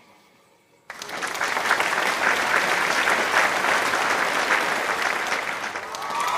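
Crowd applauding, starting suddenly about a second in after a brief lull and holding steady.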